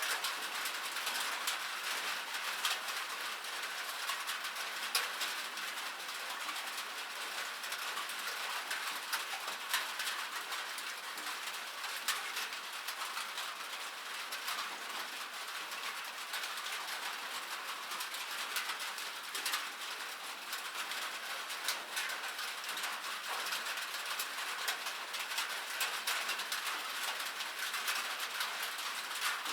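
Rain falling on a metal surface: a steady, even patter, dotted with many sharp individual drop strikes.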